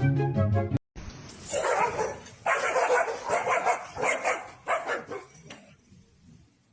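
A dog barking repeatedly in a run of short calls that fade out near the end.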